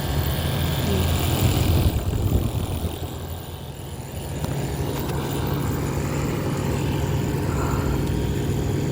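Steady low mechanical hum of outdoor central air conditioning equipment running, with a louder rush of noise over the first two seconds.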